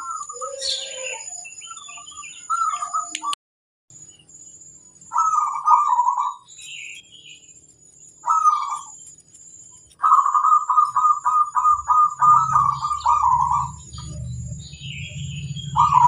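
Zebra doves cooing. There is a short phrase about five seconds in and another near eight seconds, then a long run of rapid repeated cooing notes from about ten to thirteen and a half seconds, and another phrase at the end. Higher chirps of other birds come between the phrases.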